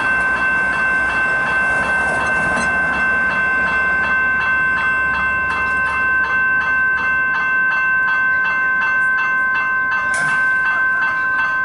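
Level crossing warning bells ringing steadily at about two strokes a second as a Comeng suburban electric train pulls into the station, its low rumble fading about seven seconds in.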